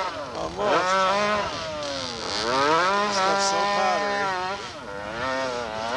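Dirt bike engine revving hard under load on a loose dirt hillclimb, its pitch rising and falling several times as the rear wheel spins and throws dirt, with a steady lower drone underneath.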